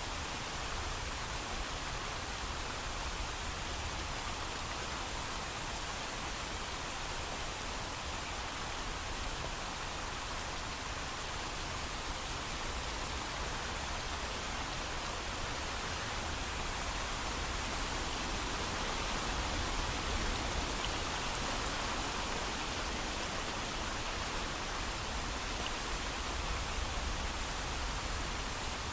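Steady heavy rain falling, an even hiss without thunder or distinct drops.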